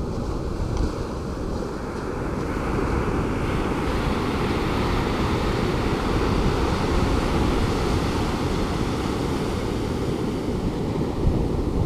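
Ocean surf: waves breaking and washing up the beach, the wash swelling about two to three seconds in and holding, over a low rumble.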